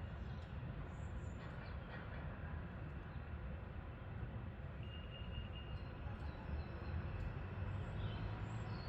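Steady low rumbling drone with no break, which the resident attributes to a device put on the railway track. A faint thin high tone comes and goes twice.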